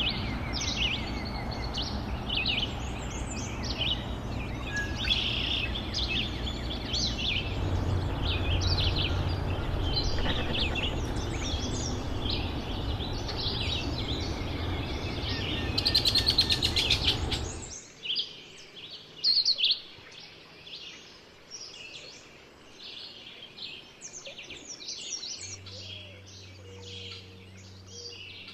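Several songbirds chirping and singing, over a steady rushing background noise that stops abruptly about two-thirds of the way through; the birdsong carries on more quietly afterwards.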